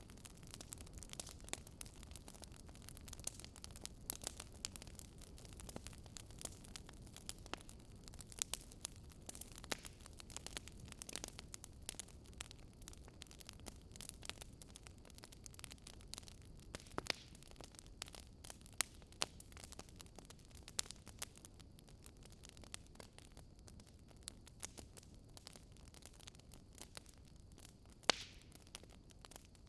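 Wood fire in a fireplace crackling, with frequent sharp irregular pops and snaps over a low, steady rumble of flames.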